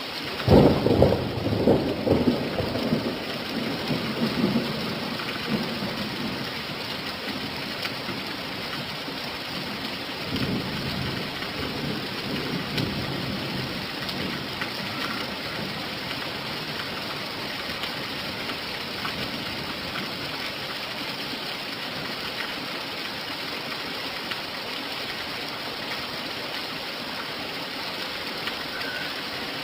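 Steady rain falling, with a loud rumble of thunder about half a second in that fades over several seconds, and a fainter roll of thunder about ten seconds in.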